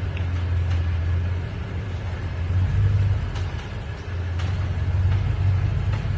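2020 Toyota Tundra TRD Pro creeping along at slow speed with a steady low rumble, and several short, faint pops scattered through. The pops are the recurring noise heard over uneven ground at slow speed, which the dealer put down to the skid plate.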